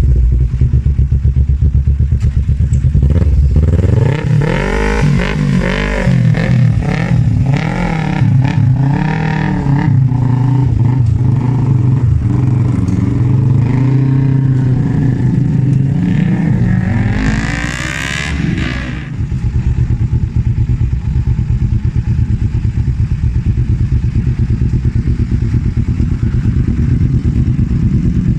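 Kawasaki Z250 parallel-twin engine through an Arrow aftermarket exhaust, revved on the stand. It idles, is blipped repeatedly with rising and falling revs for about twelve seconds, is taken higher once, then drops back to a steady idle.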